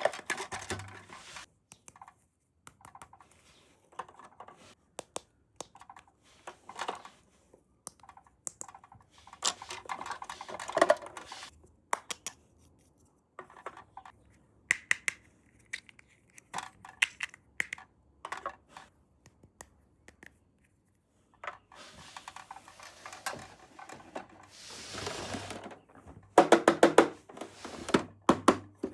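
Small plastic toy pieces being handled and set down: scattered clicks, taps and light rustling with short pauses, and a quick run of ticks near the end.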